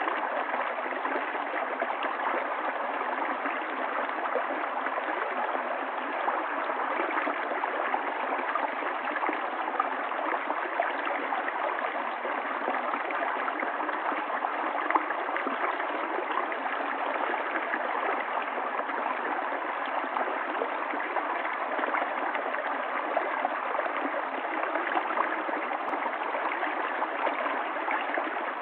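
Running water of a stream, a steady, unbroken flow.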